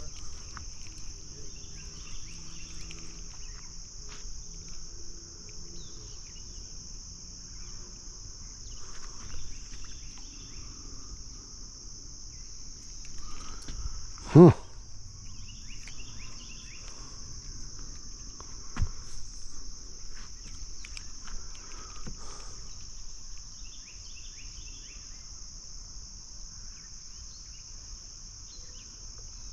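A steady, high-pitched chorus of night insects, with a few faint clicks and rustles.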